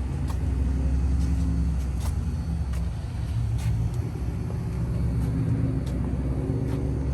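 A motor vehicle's engine running at low revs nearby, a steady low rumble that swells a little about a second in.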